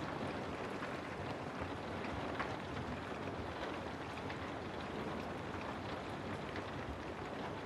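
Steady rain ambience: an even hiss of rainfall with scattered drop ticks.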